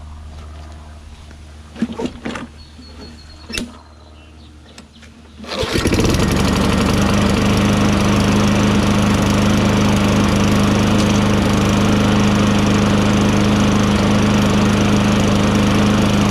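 A few knocks, then the 6.5 hp Tecumseh engine of a Toro Recycler lawn mower is pull-started and catches about five and a half seconds in. It then runs steadily and loudly with a strong low hum, with its air filter off.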